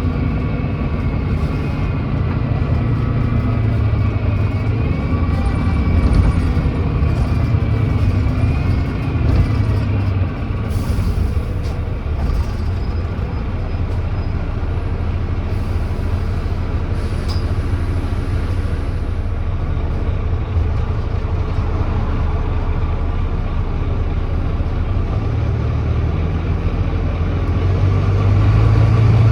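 Volvo B9TL double-decker bus with a Volvo D9B 9.3-litre diesel and an exhaust leak, heard from on board, running steadily with its engine note wavering. Brief hisses of air come about ten and sixteen seconds in, and the engine pulls harder near the end.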